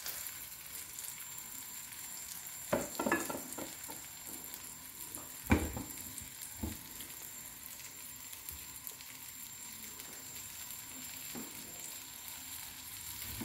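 Egg-and-bread omelette frying in oil in a nonstick pan, a steady sizzle as the freshly flipped second side cooks. A few light knocks come through, the loudest about five and a half seconds in.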